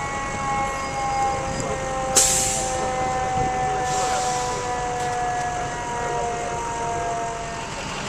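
Emergency vehicle siren winding down, its tone falling slowly in pitch, over a steady engine and traffic rumble. A sudden loud hiss of air about two seconds in, and a fainter one about four seconds in.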